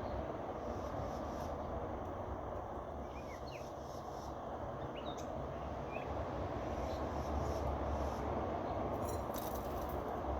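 Steady low background rumble, with a few faint short bird chirps about three to six seconds in.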